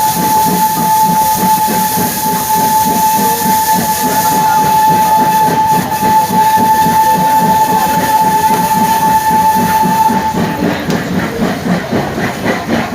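Steam locomotive dressed as Thomas the Tank Engine, puffing steadily while sounding one long, single-note steam whistle that stops about ten seconds in; the chuffing carries on after it.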